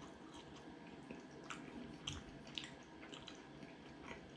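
A mouthful of steak pie being chewed, faint, with soft wet mouth clicks coming irregularly.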